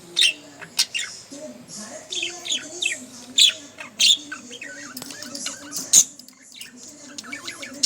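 Budgerigar warbling: a fast, continuous chatter of short high chirps and squeaks broken by sharp clicks.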